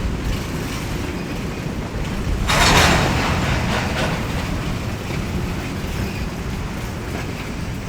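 A freight train moving during switching, with a steady low rumble. A loud hiss starts about two and a half seconds in and fades over about a second.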